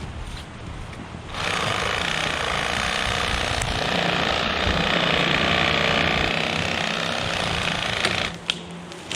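Reciprocating saw (sawzall) cutting through a downed tree log; it starts about a second in, runs steadily for about seven seconds and stops near the end.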